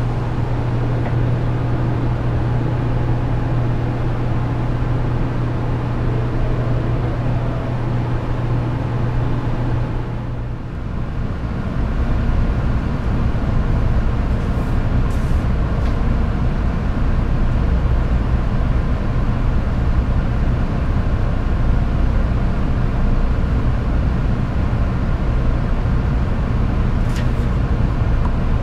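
Steady electrical and mechanical hum of a 700 series Shinkansen train standing at the platform. About ten seconds in the hum drops to a lower pitch.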